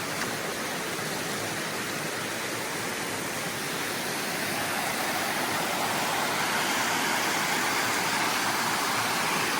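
Waterfall on a creek: a steady rush of falling water that grows louder about four seconds in.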